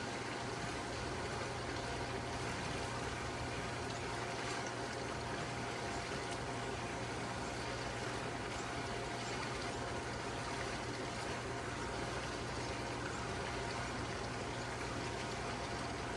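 Steady running water over a constant low hum, unchanging throughout.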